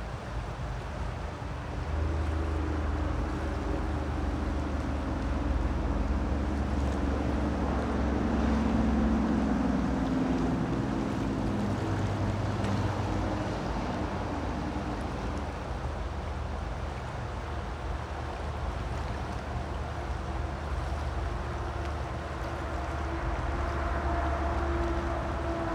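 Steady rush of creek water, joined about two seconds in by a louder low engine drone, its pitch shifting slowly as it goes on.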